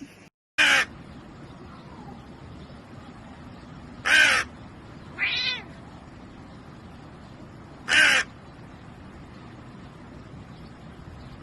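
Loud, harsh animal calls: three short ones about four seconds apart, with a softer, higher pitched call between the second and third.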